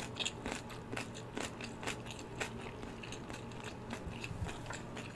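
Close-miked chewing of a mouthful of wasabi tuna-mayo kimbap, with irregular soft crunchy clicks from the seaweed-wrapped rice roll.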